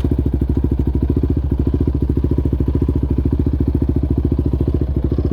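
Yamaha Raptor 700R's single-cylinder engine running at a steady, even pace while riding, a regular thumping pulse. No skid-plate rattle is heard; the rider says the foam insert he fitted has cured it.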